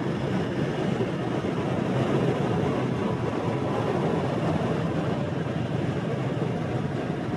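Steady rumble of a motorbike on the move through city streets: engine, tyre and wind noise at an even level.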